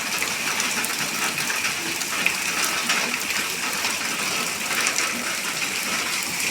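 Rain falling steadily, a dense patter of many drops hitting a surface.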